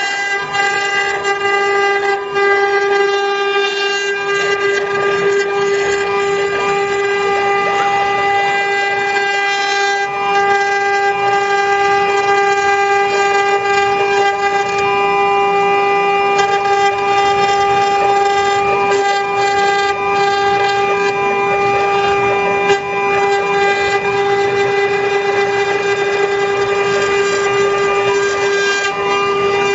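A 6090 CNC wood router's water-cooled spindle running at a steady high whine while the machine cuts wood.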